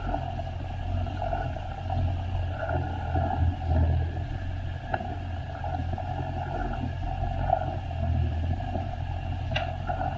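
Jet ski engine running steadily, with a low rumble of wind on the microphone.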